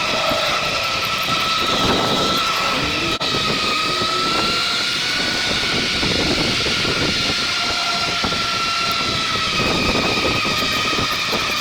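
Rad Rover e-bike's hub motor whining steadily under power, its pitch drifting slightly with speed, over rushing wind and tyre noise.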